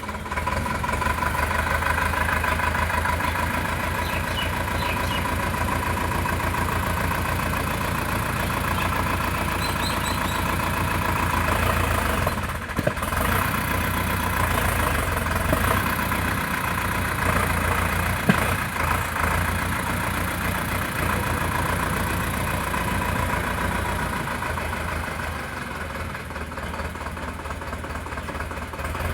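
Sonalika DI 750 tractor's diesel engine running steadily, with a brief dip in the sound a little before halfway through.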